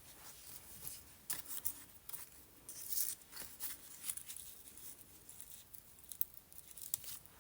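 Paper and a stencil being handled on a table: light rustling and scraping with several short scratchy sounds, spaced irregularly.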